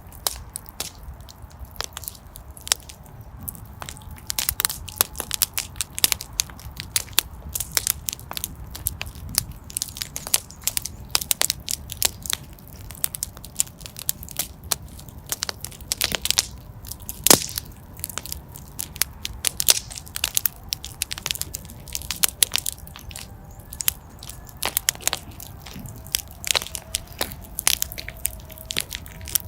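Fire burning in a fireplace, crackling with irregular sharp pops and snaps, some louder than others, over a low steady rumble of the flames.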